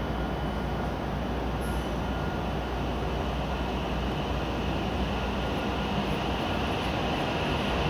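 E7-series Shinkansen train pulling out from the platform: a steady low hum from the trainset, with running noise building as it starts to move.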